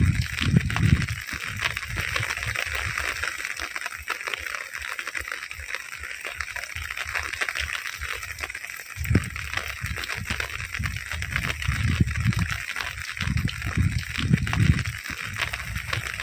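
Heavy rain falling steadily, with a dense patter of drops, while strong wind gusts rumble on the microphone at the start and again for several seconds in the second half.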